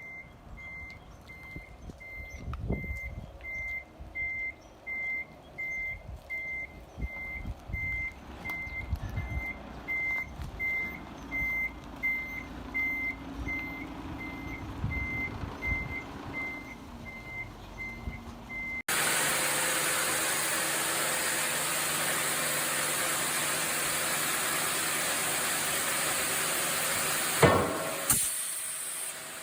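A vehicle's reversing alarm beeping steadily, about twice a second, over low engine rumble and knocks. About two-thirds of the way through it cuts abruptly to a louder, steady rushing machine noise, with one sharp loud bang near the end.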